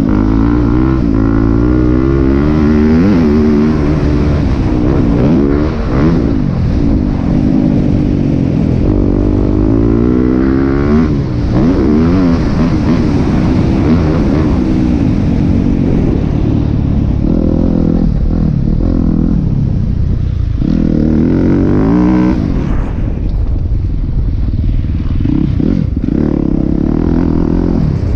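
Yamaha YZ250F four-stroke motocross engine revving up and down repeatedly as the bike is ridden around the track, with brief drops in revs in the later part.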